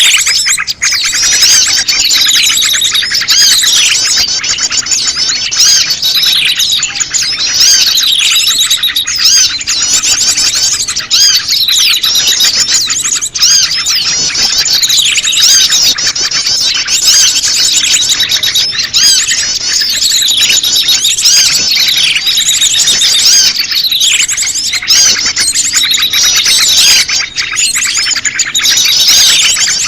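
Dense chorus of many small birds chirping and calling over one another, with quick sweeping notes that never pause. It is a bird-lure recording of prenjak lumut calls mixed with a noisy flock, meant to draw wild birds in.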